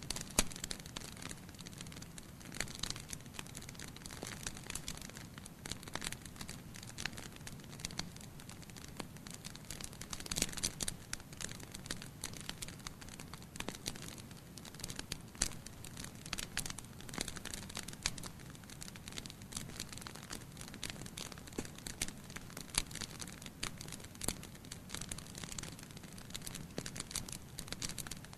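Wood fire burning in a fireplace, crackling with many small irregular pops and snaps over a soft steady rush of flame.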